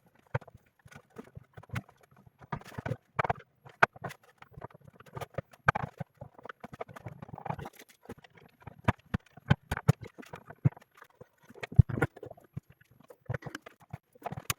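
Irregular clicks, taps and knocks of a Sonos Playbar's casing and parts being handled during reassembly.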